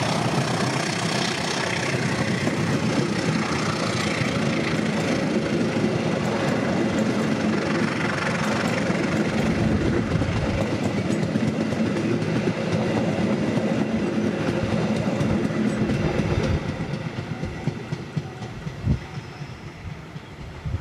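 A train passing close by, its wheels rumbling and clattering on the track. The noise drops off abruptly about sixteen seconds in, and a single knock follows a little later.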